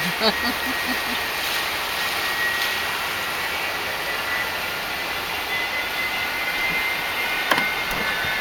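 Distant jet airliner's engines running up for takeoff: a steady rush with a faint high whine that creeps slightly higher in pitch.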